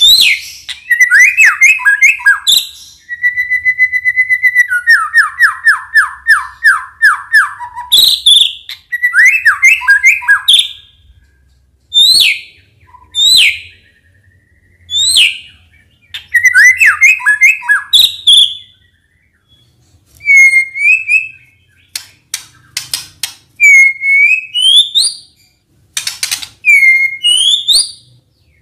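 White-rumped shama (murai batu) singing loudly in varied whistled phrases: fast trills, a held whistle, quick runs of falling notes and sharp rising notes, with short pauses between phrases.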